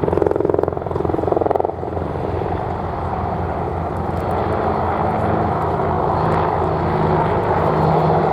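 Boeing AH-64E Apache attack helicopters flying, rotor blades beating steadily with engine drone.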